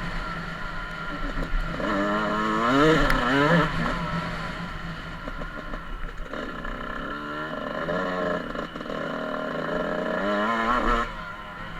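Motocross bike engine revving and accelerating, its pitch climbing in steps through the gears and dropping back. It does this twice, around two to four seconds in and again from about six seconds to near the end.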